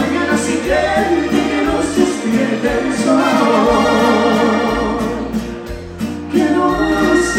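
Live dance orchestra playing a Latin pop song, with singing over a steady bass line; the music dips briefly in loudness about two-thirds of the way through.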